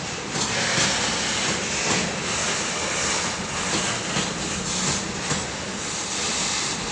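Freight train rolling past at speed, a steady rushing rumble of wheels on rail with clicks from the rail joints.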